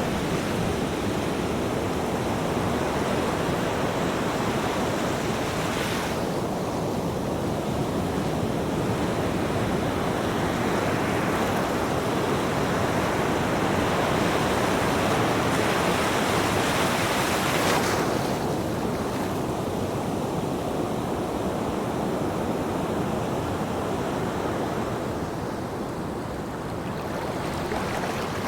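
Ocean surf: waves breaking and washing in, a steady rushing that swells to a peak and then falls away.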